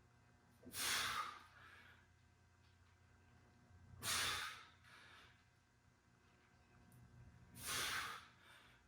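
A man breathing out hard three times, about three and a half seconds apart, in rhythm with the repetitions of a weighted exercise.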